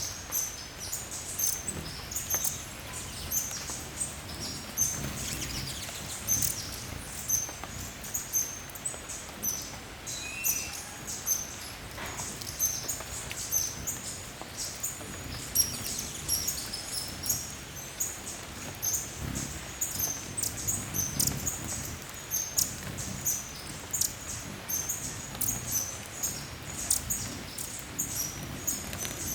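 Hummingbirds giving short, very high-pitched chip calls, repeated several times a second, over a low background rumble.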